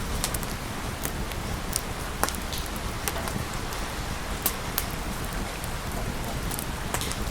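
Steady rain falling, with scattered sharp pops and crackles at irregular moments.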